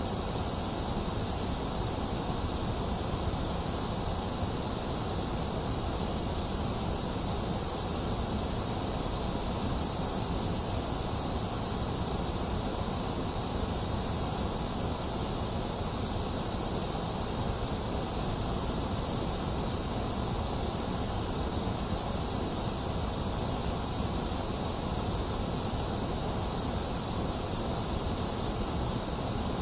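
A box fan running together with falling rain, a steady, unchanging noise with a high hiss over a low rumble.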